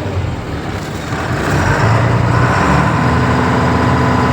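Diesel engine of a Tata truck running steadily, with a steady higher whine joining in about two and a half seconds in.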